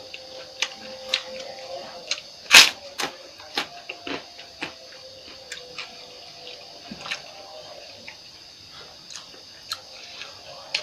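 Mukbang eating sounds: a scattering of small irregular clicks and mouth smacks from chewing, with one louder short smack or clatter about two and a half seconds in.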